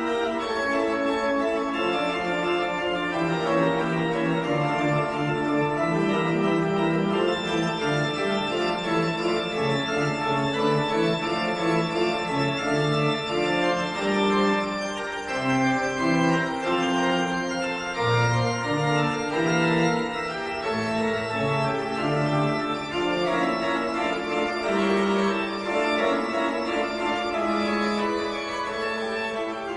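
Organ music: held chords over a bass line that moves step by step, fading slightly near the end.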